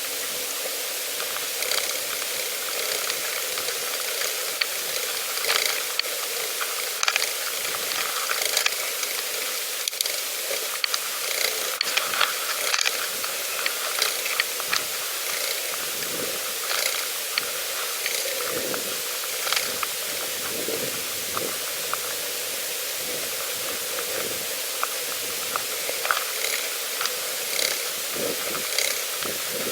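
Pedal bicycle being ridden along a path: a steady hiss of tyre and wind noise, with frequent small irregular clicks and rattles from the bike.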